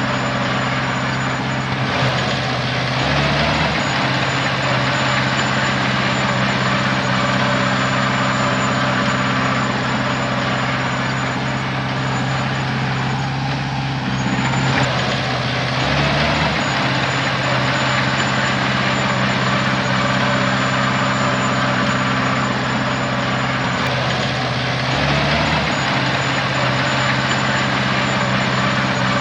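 Heavy diesel earthmoving-site engine running steadily under work, its pitch shifting briefly about 2, 14 and 25 seconds in as the load or throttle changes.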